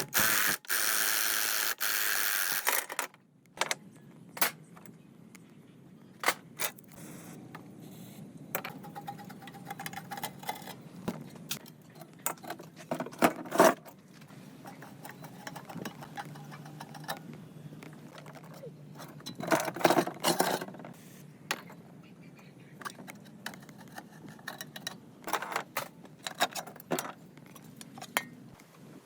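Loud hiss for the first three seconds, then small metal parts clinking, knocking and scraping against each other at irregular intervals, with sharper clatters about a third of the way in and again around two-thirds through.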